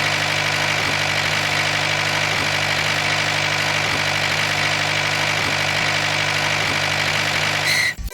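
Engine of a DIY mini tractor idling steadily, then cutting off abruptly near the end.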